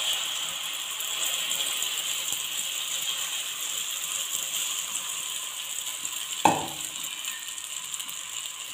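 Egg batter with onion, tomato and green chilli sizzling and crackling in hot oil on a tawa, easing slowly. A single sharp knock about six and a half seconds in.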